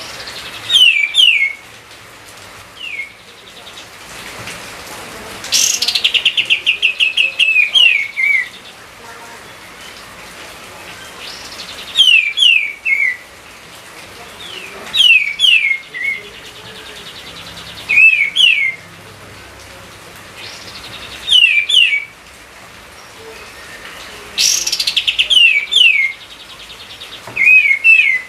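A songbird singing close by: short loud phrases of two or three quick down-slurred whistles, repeated about every three seconds, twice opening with a fast falling trill.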